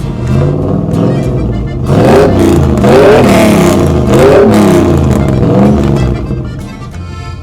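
Vehicle engine sound effect revving up and down about four times in a row over a steady low running note, easing off near the end.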